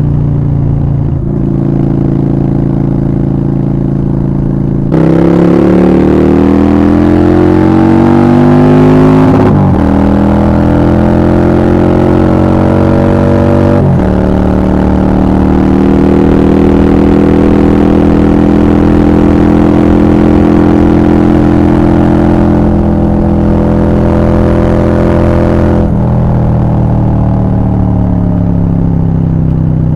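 Honda Shadow 750 V-twin through a Black Widow aftermarket exhaust, riding under load. About five seconds in, the throttle opens and the revs climb twice, broken by an upshift each time. It then cruises at steady revs and eases off the throttle near the end.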